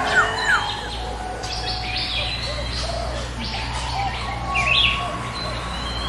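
Several small birds chirping and whistling together, short overlapping calls and rising and falling notes from different birds, over a steady low hum.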